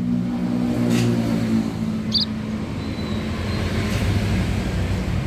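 A motor vehicle engine running close by, a steady pitched hum that gives way to a rougher low rumble about halfway through. One brief high bird chirp about two seconds in.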